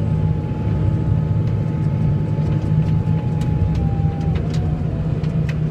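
A vehicle engine running steadily, a dense low rumble, with a faint whine above it that drops a little in pitch after about four seconds and a few light clicks.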